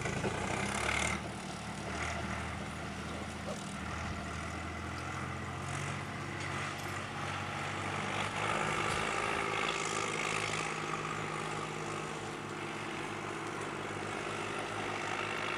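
Tractor engine running steadily as the tractor drives along, with a slight change in engine pitch about four seconds in and a few brief knocks.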